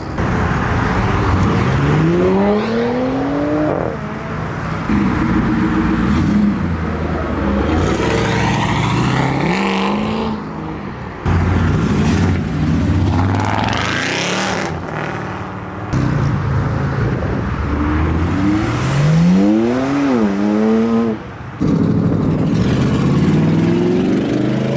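Loud modified car engines revving and accelerating away one after another, their pitch climbing steeply in each pull. The sound changes abruptly several times between cars.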